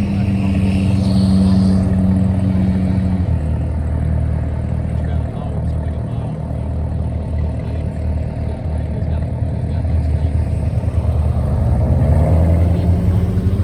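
Car engine running with a low rumble as a vehicle pulls away, its pitch rising as it revs up near the end.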